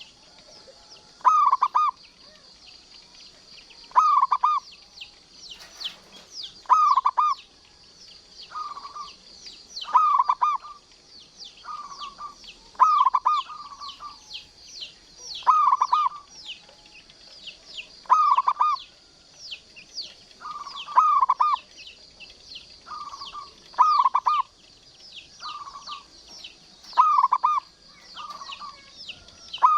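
Local Indonesian zebra dove (perkutut) cooing its rolling, bubbling song over and over, a loud phrase about every three seconds with fainter coos in between. Steady high chirping goes on in the background.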